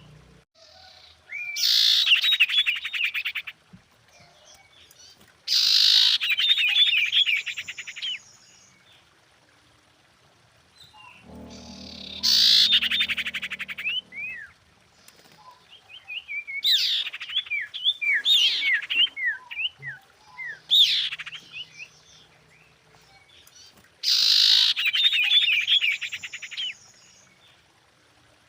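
Female common iora calling, the kind of call that draws a male: about six phrases, each a couple of seconds of a harsh rapid rattle mixed with quick down-slurred chirps, with pauses of a few seconds between them.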